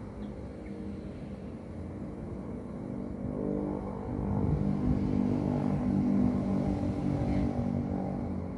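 A motor vehicle's engine passing, growing louder about halfway through and easing off near the end.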